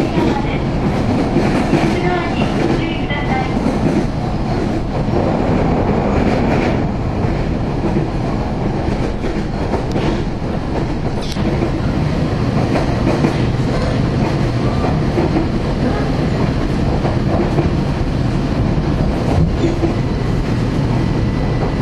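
Running noise of a JR Kyushu train heard from inside the passenger car: a steady rumble of wheels on rail, with occasional clicks as the wheels pass rail joints.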